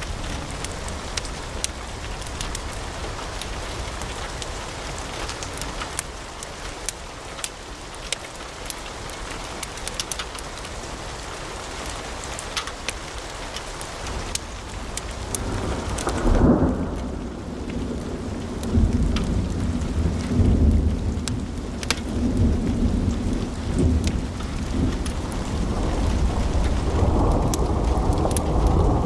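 Wood fire in a fireplace crackling, with a steady hiss and many sharp pops. About halfway through the sound abruptly turns deeper and louder, a low rumbling with the crisp highs dulled and only occasional pops.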